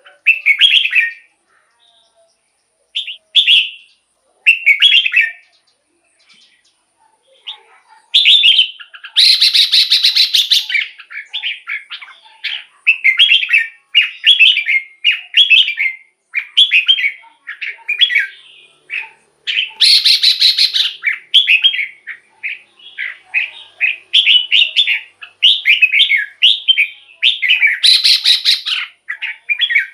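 Red-whiskered bulbul singing short, bright whistled phrases, spaced out at first and then almost continuous from about a quarter of the way in. Three harsh, rasping bursts are mixed in with the phrases.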